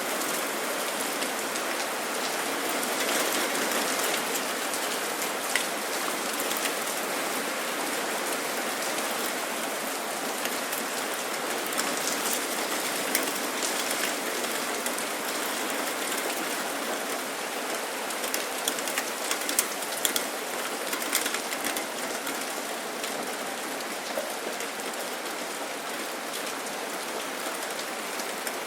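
Steady rain falling, an even hiss of many drops, with scattered louder single drops ticking close by, more of them around the middle.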